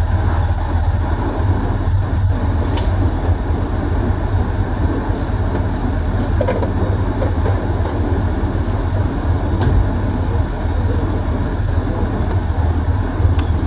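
Steady low rumble of a dually pickup truck running, engine and road noise heard inside the cab, with a few faint ticks.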